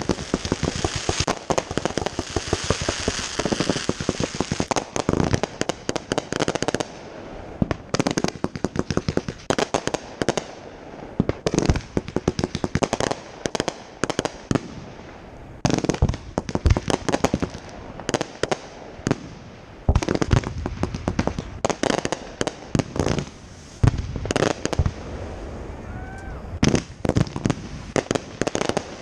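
Fireworks display, aerial shells and cakes going off: a dense run of rapid crackling for the first several seconds, then a string of separate loud bangs spaced out through the rest.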